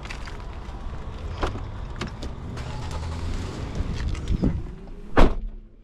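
A Hellcat Redeye's supercharged V8 idles with a steady low rumble and a few light clicks. Just past five seconds in comes a single loud thump, after which the sound drops off suddenly.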